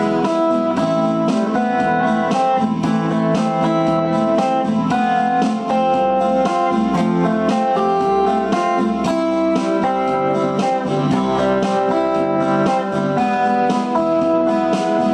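Instrumental guitar music without singing: a steady, even run of plucked notes over accompaniment.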